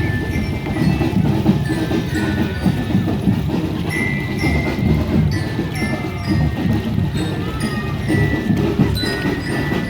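Marching drum band playing: rapid drumming with a melody on bell lyras (glockenspiel) on top.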